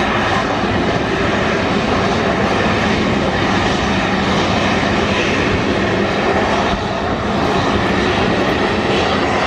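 Jet engines of the Red Arrows' BAE Hawk T1 trainers running, a loud steady noise with faint even tones that neither rises nor falls.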